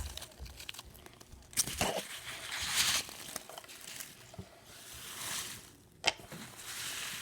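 Packing peanuts being squeezed and rubbed together, crackling in irregular bursts, with two sharp snaps, one early and one near the end.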